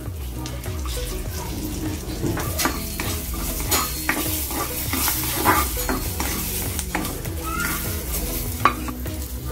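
Butter sizzling in a non-stick kadai as chopped green chillies and ginger fry in it, with a spatula stirring and scraping against the pan in short strokes every second or so.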